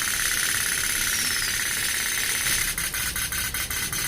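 Candle-heated pop-pop boat: a steady hiss, then from nearly three seconds in a rapid, even putt-putt ticking of about six pops a second as its heated boiler starts pulsing.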